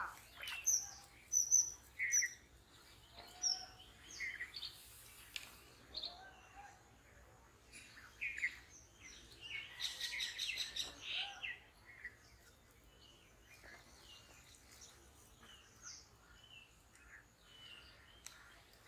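Birds chirping and calling: scattered short high chirps and whistled notes, with a busier run of calls about ten seconds in.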